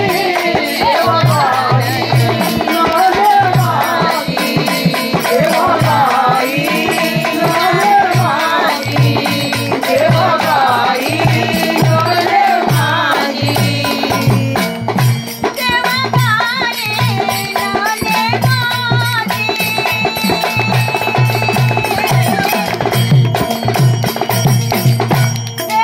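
Marathi devotional folk song in the gondhal style: a woman sings over a steady drum beat and jingling rattle percussion. Past the middle the voice gives way to a melody of held notes over the same beat.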